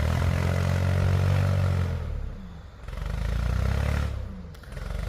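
Backhoe engine revving in three long surges with dips between them, working under heavy load while the machine is hung up in deep snow.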